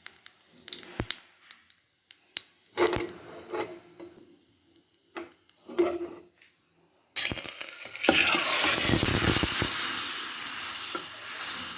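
Kitchen handling sounds: scattered clicks and a few short clatters of utensils, then, about seven seconds in, a sudden loud steady rush of water from a tap that runs on.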